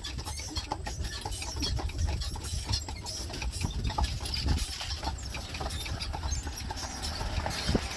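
Horse-drawn buggy rolling along the road: irregular clicking and rattling from the horse's hooves and the buggy's wheels, over a steady low rumble.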